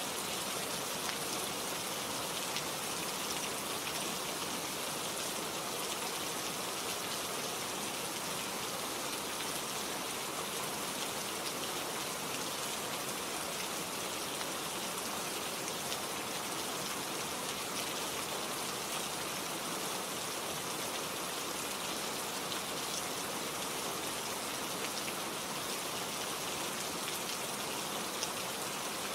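Steady rainfall, with many fine drops pattering on a surface.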